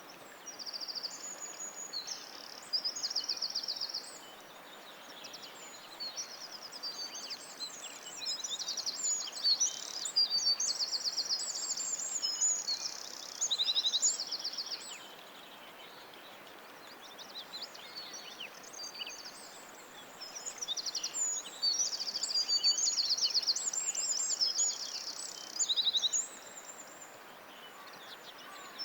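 Songbirds singing, in bursts of high, fast trills and chirps with short pauses between phrases, over a steady background hiss.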